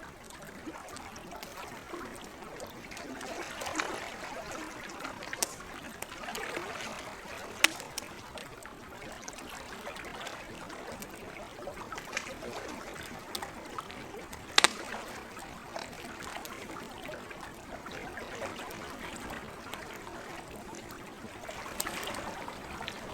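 Campfire crackling, with scattered sharp pops and two louder snaps, over the gentle lapping of lake water that swells and eases every few seconds.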